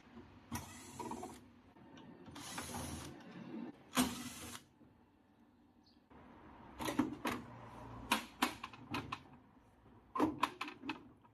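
Washing machine being taken apart by hand: three short rasping, scraping stretches of metal and plastic parts as screws are taken out, then a run of sharp clicks and knocks as parts are handled and worked loose.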